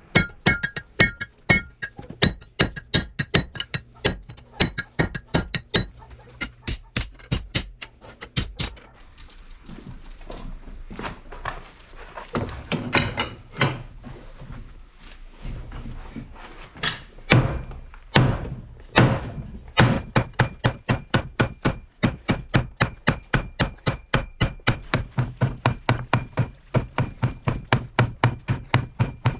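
Repeated hammer blows on hot steel from a thick truck spring being forged into an axe. The strikes come in runs, thin out in the middle, then settle into a steady run of about three blows a second near the end.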